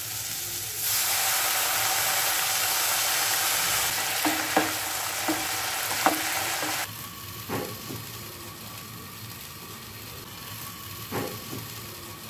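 Agathi flowers and chillies stir-frying in a non-stick pan: loud, steady sizzling, with a spatula knocking and scraping the pan a few times. About seven seconds in the sizzling drops to a quieter, duller hiss with the pan covered by its glass lid, and there are two more light knocks.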